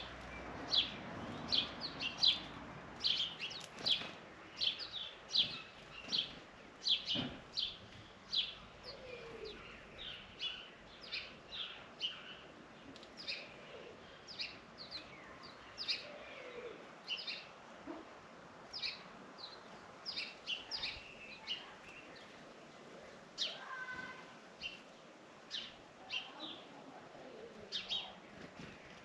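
Small birds chirping over and over: short, sharp high chirps, about one or two a second, with a few fainter, lower calls among them.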